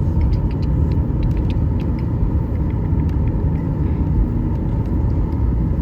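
Airliner cabin noise: the steady low rumble of the jet's engines and airflow heard from inside the cabin, with a few faint clicks over it.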